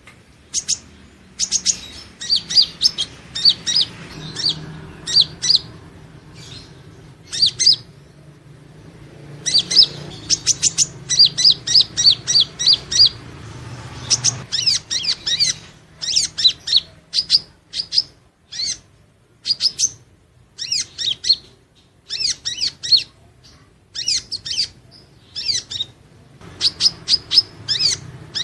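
Purple-throated sunbird (Leptocoma sperata) singing: quick runs of thin, high chirping notes, several notes a second, broken by short pauses.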